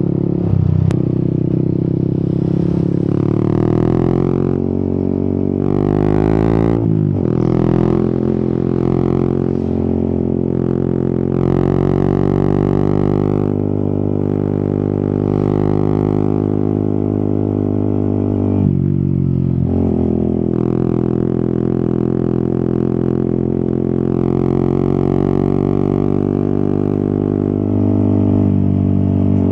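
Yamaha XSR 155's single-cylinder four-stroke engine pulling under way, its revs climbing steadily and then dropping sharply about seven seconds in, as at a gear change. The revs dip and recover again a little past halfway, and a hiss comes and goes over the engine note.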